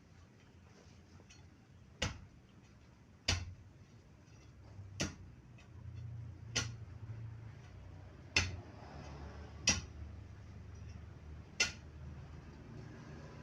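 Seven sharp knocks, one every one and a half seconds or so, slightly irregular, over a faint low hum.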